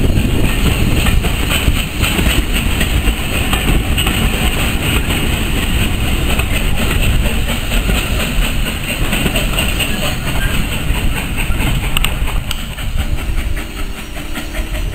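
Railway passenger coaches rolling past, a steady rumble with the wheels clicking over the rail joints.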